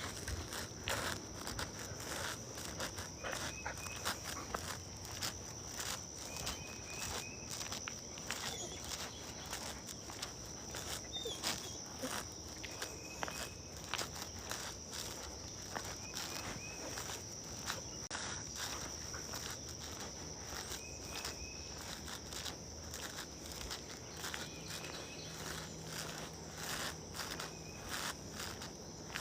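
Footsteps walking at a steady pace, over a steady high-pitched insect chorus with short high chirps repeating every few seconds.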